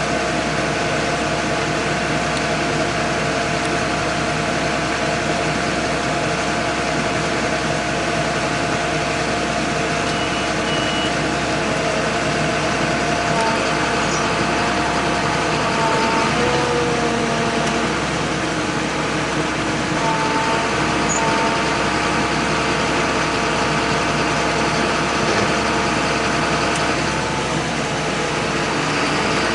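John Deere 8100 tractor's diesel engine running steadily under load, its note shifting briefly about halfway through.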